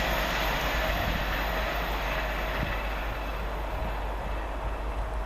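LNER Class 800 Azuma train passing on the fast line, a steady rushing noise that slowly fades as it moves away.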